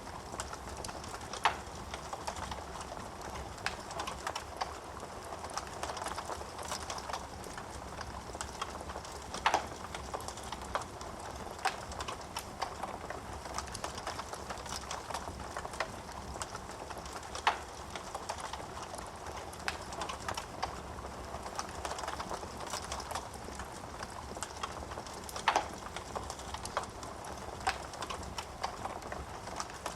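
Wood fire burning in a fireplace: a steady low hiss of flames with irregular crackles and sharper pops from the burning wood, a few of them louder than the rest.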